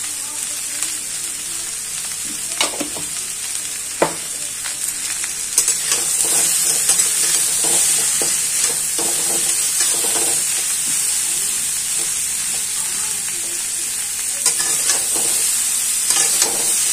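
Cauliflower, onion and spices sizzling in oil in a steel kadhai while a flat metal spatula stirs them, scraping and clicking against the pan now and then. The sizzle grows a little louder about six seconds in.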